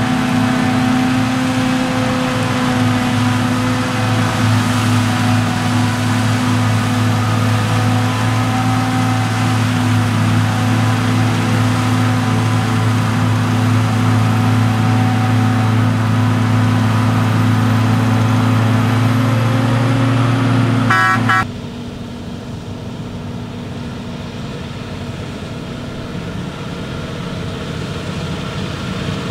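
Heavy diesel farm machinery running steadily under power with a strong, even droning note. About 21 seconds in it cuts off abruptly to a quieter engine running.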